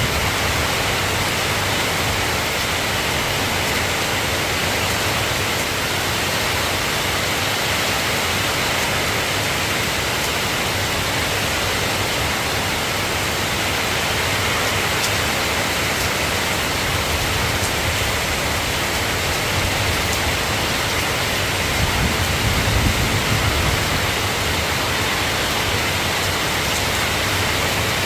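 Steady rain falling, an even hiss, with a brief low rumble swelling about three-quarters of the way through.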